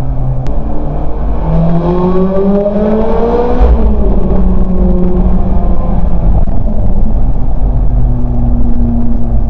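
Ferrari F430 Spider's 4.3-litre V8 on its stock exhaust, pulling hard: the revs climb for about two seconds, drop abruptly about four seconds in, then the engine runs on steadily at lower revs.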